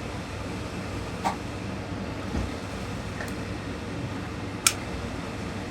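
Steady room hum and hiss, like a fan or air conditioner running, with three brief clicks or taps, the loudest near the end.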